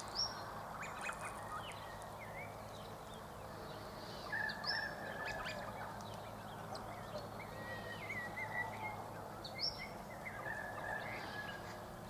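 Birds calling faintly: scattered short high chirps and a few drawn-out whistles, over a low steady hum.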